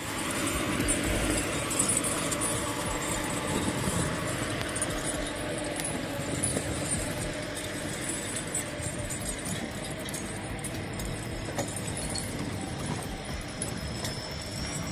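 Tractor engine running steadily under load, with loose metal rattling.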